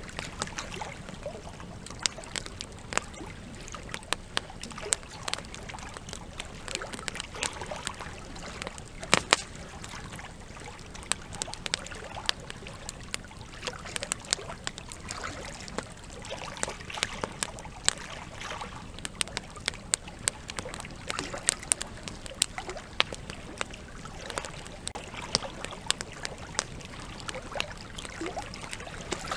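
Campfire crackling with irregular sharp pops, the loudest about nine seconds in, over a river trickling and gurgling.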